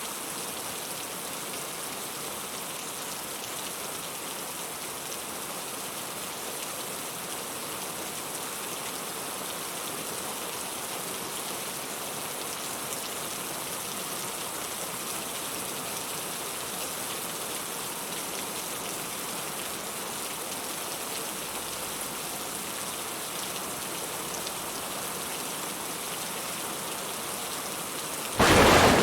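Steady rain falling, an even hiss of drops on surfaces. Near the end a sudden, much louder clap of thunder breaks in.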